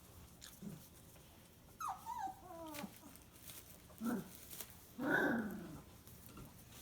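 Puppies playing, giving a few short, pitched whines and yelps that fall in pitch, with the loudest call about five seconds in.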